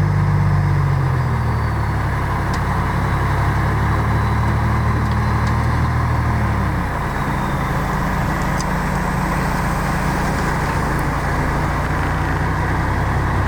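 Heavy diesel engine of earth-moving machinery running steadily. Its pitch drops slightly about a second in and again about seven seconds in.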